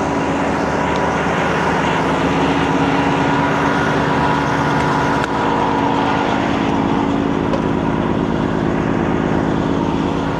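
Semi truck's diesel engine running with a steady drone while the truck moves slowly.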